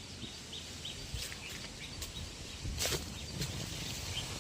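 A small bird chirping: a quick series of short, repeated notes, about three a second, fading out after the first second, over steady outdoor background noise. A brief sharp noise about three seconds in.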